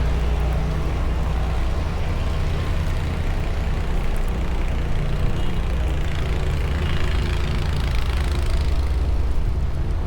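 A large vehicle's engine running with a low, steady rumble, under an even wash of street noise.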